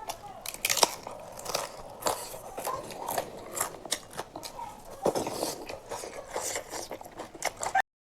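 Close-miked eating: wet chewing and smacking with sharp mouth clicks and occasional crunchy bites. It cuts off abruptly to silence near the end.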